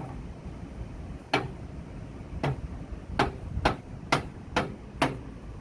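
Stainless-steel milk pitcher knocked on the counter seven times, the knocks coming faster toward the end, to settle the freshly steamed milk foam.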